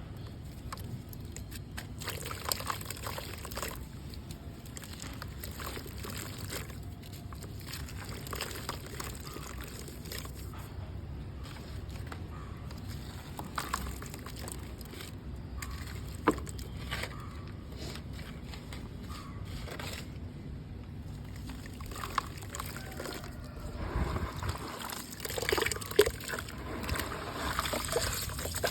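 Gritty red mud crumbling in water: wet trickling and sloshing mixed with crunchy crackles, with a few sharp cracks, busiest near the end.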